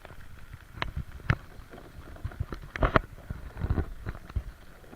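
Footsteps and handling knocks of someone walking with a handheld camera: irregular sharp clicks and dull thumps, loudest about three seconds in.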